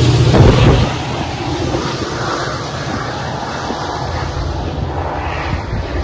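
Commuter rail train passing, the last coach's wheels rumbling loudly on the rails, then the sound drops off sharply about a second in to a steady, fainter rumble as the train pulls away.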